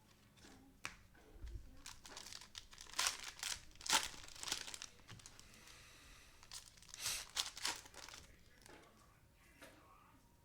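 Cellophane trading-card pack wrappers crinkling and tearing as the packs are opened, in several bursts with the loudest around the middle.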